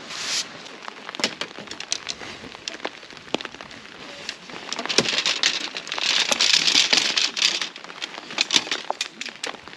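Rain falling, with scattered sharp drips ticking throughout and a louder rushing swell of noise from about five and a half to seven and a half seconds in.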